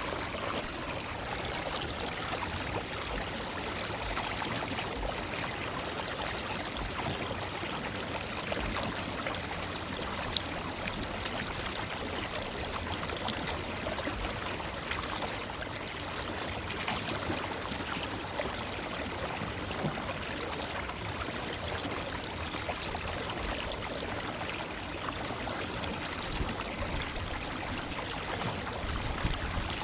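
Forest river flowing, a steady rush of running water. A single sharp click about a third of the way through.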